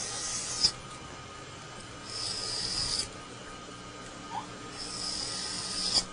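Steel broadhead drawn across a big flat file, three strokes each about a second long and about two seconds apart, each ending with a sharp click: the edges being sharpened on the file.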